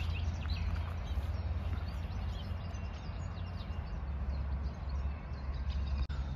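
Songbirds chirping in short calls, mostly in the first half, over a steady deep background rumble.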